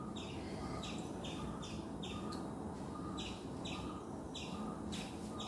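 A small bird chirping over and over: short, high chirps, roughly two a second, heard faintly.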